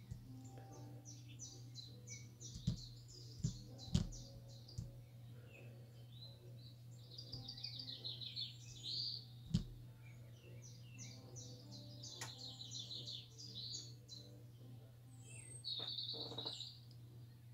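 A small bird chirping in quick high trills, in several phrases, over a steady low hum. A few sharp knocks come in between, the loudest about four seconds in and again near ten seconds.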